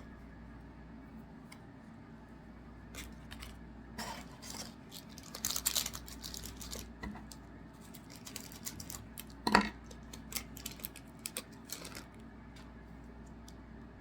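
Trading cards and packs being handled: scattered light clicks and rustles, with a denser run of rustling about six seconds in and one sharp click near ten seconds.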